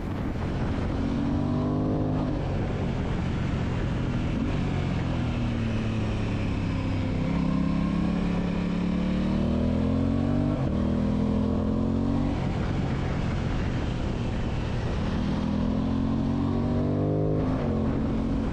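Aprilia Tuono 660's 659cc parallel-twin engine under load, accelerating hard. Its note climbs and drops back several times as it shifts up through the gears.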